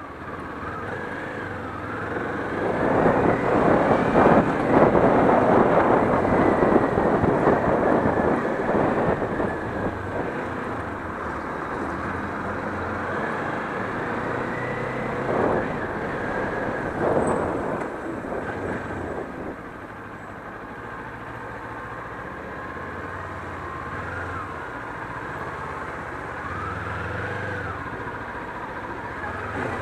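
Kawasaki Ninja 400's parallel-twin engine running under way, with wind rush. It gets loud for several seconds about two seconds in and surges again briefly mid-way, then settles to a quieter running note whose pitch rises and falls a few times near the end.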